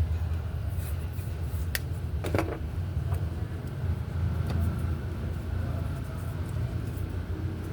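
Vehicle engine idling with a steady low rumble, with a couple of sharp clicks about two seconds in.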